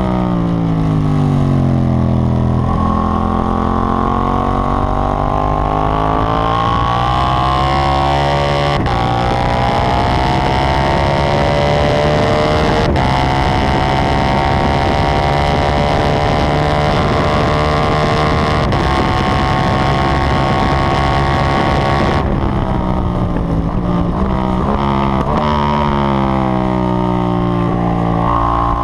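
KTM 790 Duke's parallel-twin engine at hard acceleration on a race track, its pitch climbing and breaking several times as it shifts up through the gears. About two-thirds through, the revs fall away as the bike slows and shifts down, then pick up again near the end.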